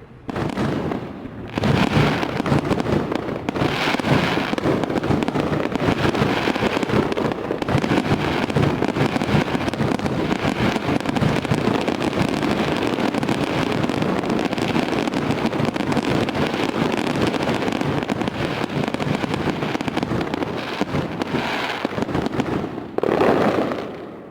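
Fireworks display: a dense, unbroken barrage of crackling and popping with a deep rumble of bursts beneath. It swells within the first two seconds, and a louder burst near the end fades away.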